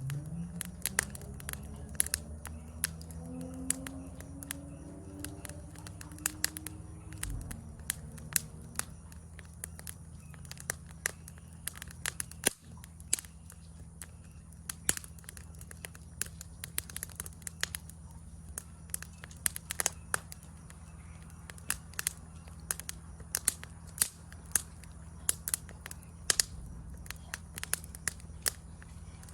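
Wood campfire crackling, with irregular sharp pops and snaps over a steady low background. A faint low tone rises slowly over the first several seconds, then drops away.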